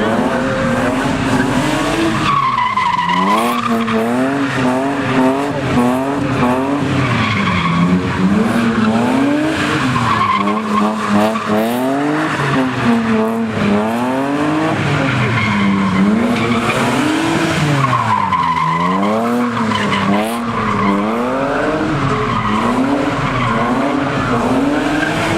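A car engine revving up and down over and over while the tires spin and squeal, as in a burnout or slide.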